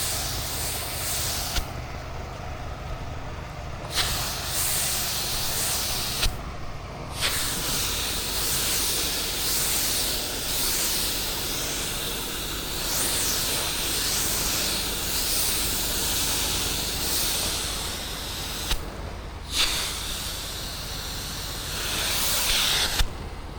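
Soft wash spray hissing as a bleach (sodium hypochlorite) mix is sprayed onto a roof, stopping briefly three times as the spray is let off and resumed. A steady low hum runs underneath.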